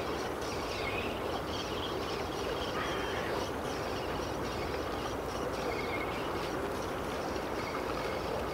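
Small birds chirping on and off over a steady rushing background noise.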